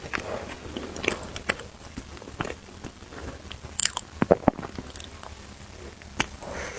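A person biting and chewing food close to the microphone, with irregular sharp crunchy clicks.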